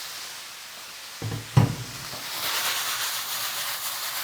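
Potatoes, peppers and onions frying in hot chicken fat, with a steady sizzle. Two knocks, the second the louder, come just over a second in; then the sizzle grows louder and crackles as the vegetables are stirred.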